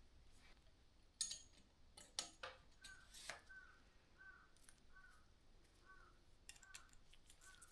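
Faint room near silence broken by a few sharp clicks of metal bike parts being handled. From about three seconds in, a bird calls faintly about eight times at an even pace, roughly one call every 0.7 s.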